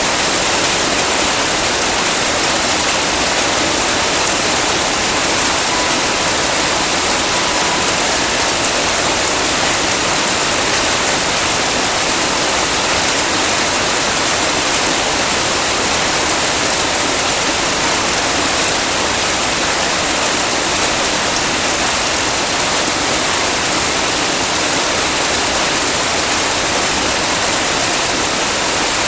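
Heavy rain falling steadily: a dense, even hiss of water with no breaks.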